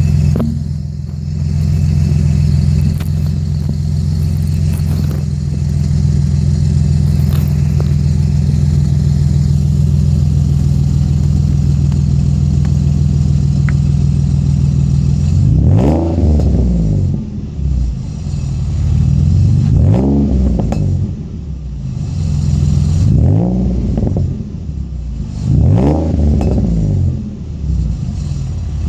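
2007 Nissan 350Z's 3.5-litre VQ35HR V6 exhaust, idling steadily for about fifteen seconds, then revved in four or five quick blips, each rising in pitch and falling back to idle.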